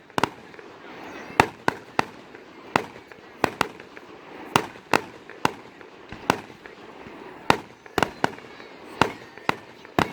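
Fireworks going off all around: a quick, irregular string of about twenty sharp bangs and pops, some louder and nearer than others, each trailing a short echo.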